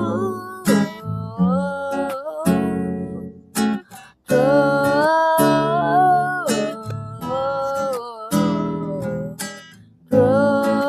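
Acoustic guitar playing the accompaniment of a pop-song cover, with a voice carrying a melody in long, sliding notes without clear words. The music breaks off briefly about four seconds in and again near the end.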